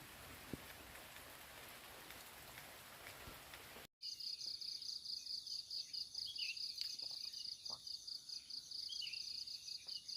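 Steady rain for about the first four seconds. Then an abrupt change to an insect's rapid, pulsing high trill, the loudest sound, with scattered short bird chirps.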